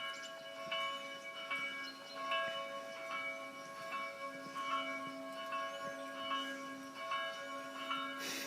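Bell-like chimes struck over and over, a new stroke about every half second to second, their tones ringing on and overlapping. A brief hissing burst comes near the end.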